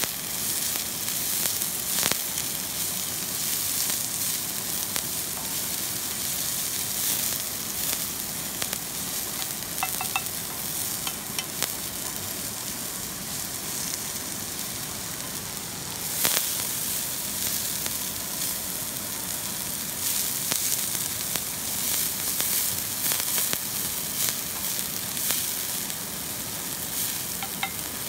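Food sizzling as it fries in a pan, a steady hiss dotted with crackles and pops.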